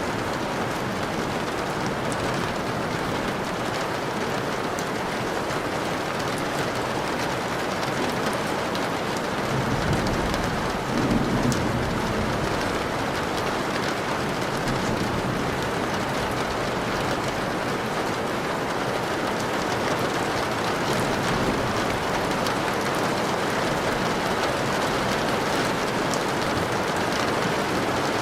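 Steady rain, with a low roll of thunder swelling and fading about ten seconds in.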